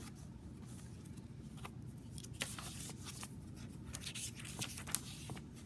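Paper and card rustling, with light taps, as journal pages and small paper inserts are handled. There is a sharper click about five seconds in.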